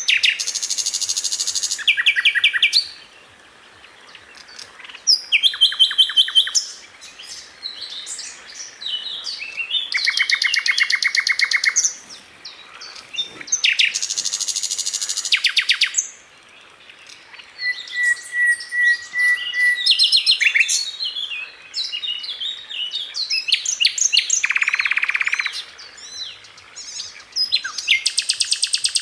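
Sikatan londo flycatcher singing: bursts of very fast, tightly packed trills about two seconds long, alternating with shorter, varied chirps and one held whistle about two-thirds of the way through.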